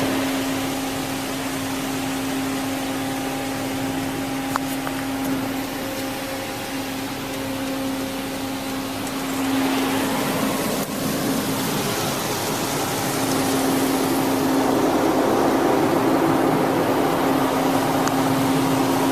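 Automatic car wash rinse spray pouring over a minivan, heard from inside the cabin as a steady rush of water with a constant low hum from the wash machinery or the idling van. It gets a little louder for the last few seconds.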